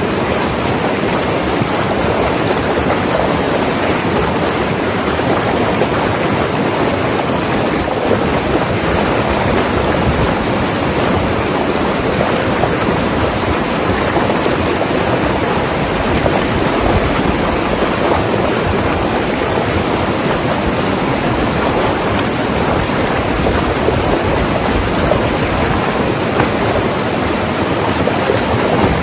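Mountain river flowing and tumbling over rocks: a steady, unbroken rush of water.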